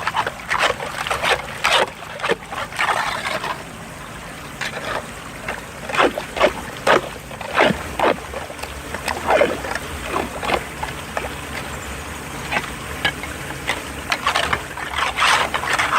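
Floodwater running into a storm drain, with repeated short splashing, scraping strokes as dirt and debris are cleared off the drain, about one or two a second and uneven.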